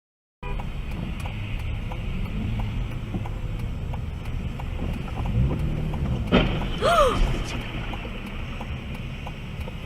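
A car's engine and road noise, heard from inside, with the engine note rising and falling. About six seconds in there is a sharp knock and a brief rising-and-falling high squeal.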